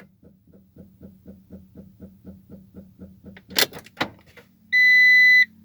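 Peugeot Boxer van's engine being cranked by the starter, turning over slowly with faint even pulses about four a second. It stops after about three seconds, followed by two loud clunks and a short, loud, high electronic warning beep.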